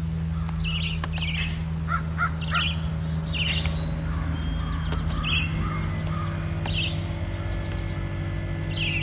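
Birds calling outdoors: short calls repeated every second or so, some in quick clusters, over a steady low hum.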